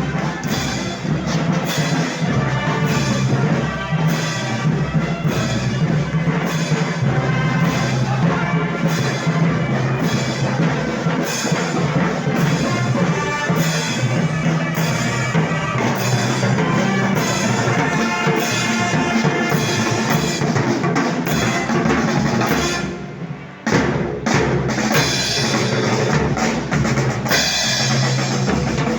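Festival band music of the Moros y Cristianos kind, with drums keeping a steady beat under the band. It drops away briefly about three quarters of the way through, then comes back in.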